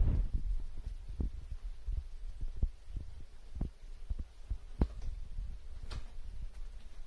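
Irregular soft thumps and knocks, a few with a sharper click, from cats playing in and against a cat-tank toy. There is a low rumble at the start.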